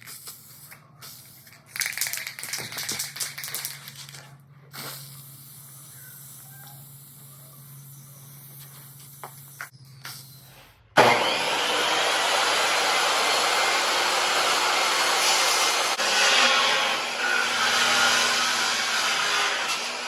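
Handling clicks and knocks while a board is set up. About eleven seconds in, a power saw starts abruptly and runs steadily, ripping a 1x10 board lengthwise, with the sound swelling as the blade cuts.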